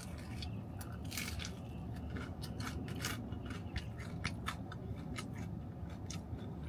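A person chewing a mouthful of crispy fried chicken close to the microphone: a run of crunchy clicks and smacks, thickest in the middle and thinning near the end, over a steady low hum.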